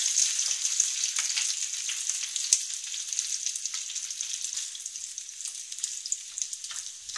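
Boiled potato cubes sizzling and crackling in hot ghee with cumin seeds in a frying pan, stirred with a spatula, with a few sharper clicks among the crackle. The sizzle slowly dies down.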